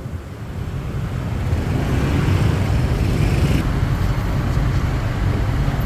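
Steady engine and road noise from a moving motorbike in busy traffic, swelling slightly over the first couple of seconds.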